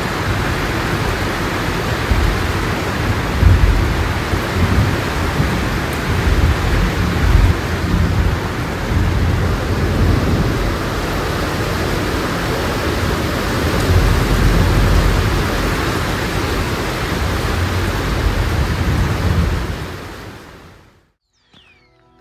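Heavy tropical downpour: dense, steady rain noise with low thunder rumbles swelling now and then. It fades out near the end.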